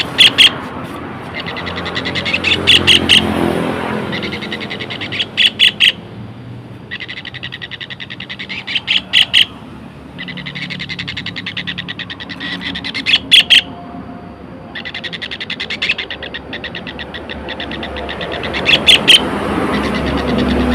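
White-throated kingfisher calling: long, fast rattling trills repeated one after another, broken by loud, sharp chattering notes every few seconds.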